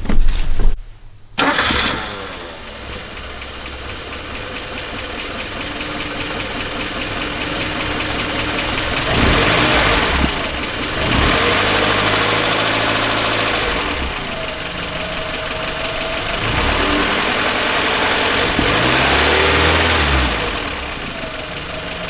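An engine starts about a second in and runs, revved up and down several times.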